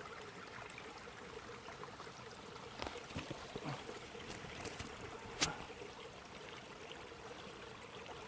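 Small woodland stream flowing steadily, a faint even rush of water, with a few brief clicks a few seconds in.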